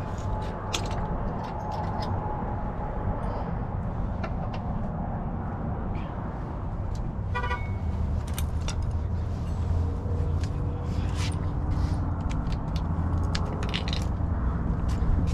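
A motor vehicle's engine running with a steady low rumble, under scattered metallic clinks and clicks of hand tools. A quick run of ticks comes about seven seconds in.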